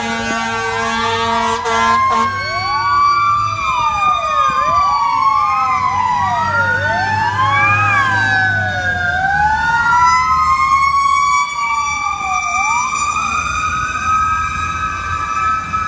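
Fire apparatus sirens from Truck 48 and Engine 48 sounding together, several at once: some rise and fall quickly about once a second, others wind slowly up and down, over the rumble of the trucks' engines. A pulsing horn sounds during the first two seconds.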